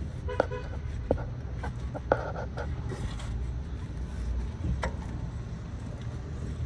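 Socket and extension clinking and knocking against metal in an engine bay: a few sharp metallic clinks, one ringing, and a short rattle about two seconds in, over a steady low rumble.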